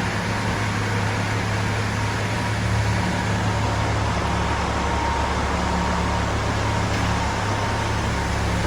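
Semi truck's diesel engine running steadily, a low even hum with a faint steady whine above it.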